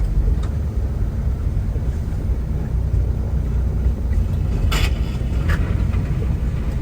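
Steady low rumble of a semi truck's engine and road noise heard inside the cab while driving, with two brief clicks about five seconds in.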